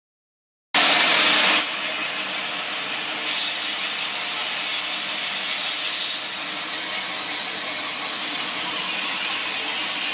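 Sawmill saw running with a steady rushing noise. After a brief moment of silence at the start, a louder burst lasts about a second before the sound settles to a steady level.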